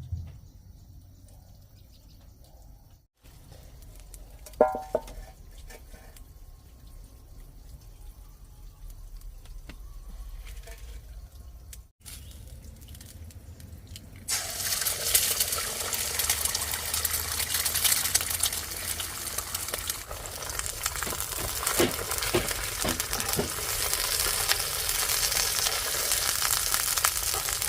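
Food frying in a hot pan, a loud steady sizzle that starts suddenly about fourteen seconds in. Before it, quieter kitchen sounds of water and one sharp clink.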